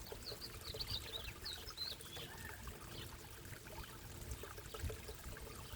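Water pouring and trickling steadily into a backyard koi pond. A bird chirps in quick short notes in the first couple of seconds.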